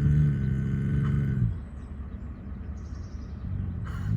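Giant schnauzer giving a long, low, steady-pitched vocal moan for about a second and a half, then starting another rising call near the end; the dog is agitated, which the owner takes for the dog waking from a bad dream.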